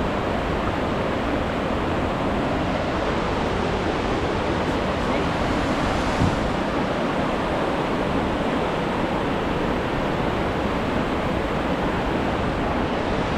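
Steady rush of fast-flowing river water, an even roar with no break.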